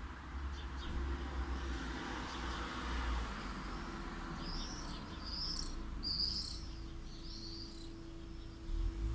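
A bird gives four short, high calls in quick succession about halfway through, over a steady low rumble of distant light traffic and a faint steady hum.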